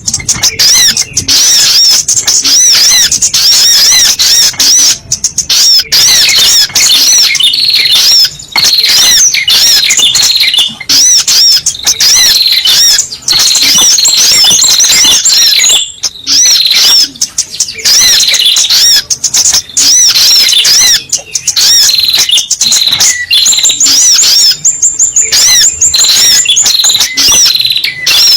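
Spiderhunter (sogok ontong) calls played as a lure: a loud, fast, unbroken series of high, arched chirping notes, pausing briefly a few times.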